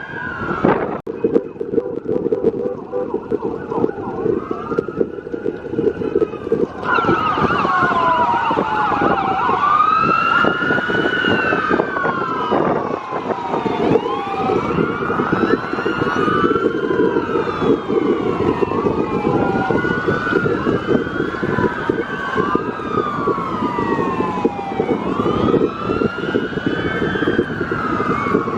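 Several emergency-vehicle sirens wailing at once, their rising and falling pitches overlapping, over a steady vehicle rumble. A louder siren joins about seven seconds in.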